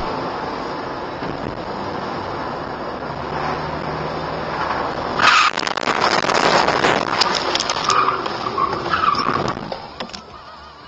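Car on the road with steady driving noise, then about five seconds in a sudden loud collision, clattering and scraping for several seconds before it fades.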